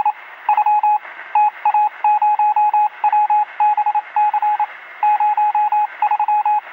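Morse code tone: a single beep at one pitch keyed on and off in irregular short and long groups, heard with a thin radio sound. It cuts off abruptly near the end.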